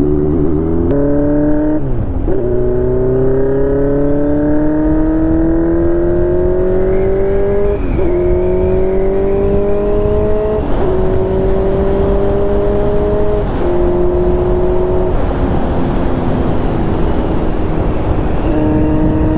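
Motorcycle engine pulling up through the gears: its pitch climbs steadily and drops at each upshift, about 2, 8, 11 and 13.5 seconds in, then holds near a steady cruise under rushing wind noise.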